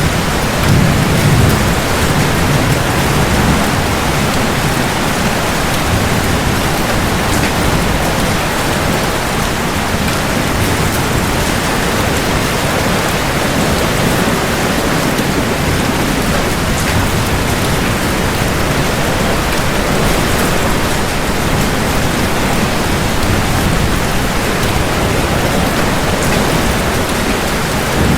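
Steady heavy rain with low rolling thunder, the rumble strongest about a second in.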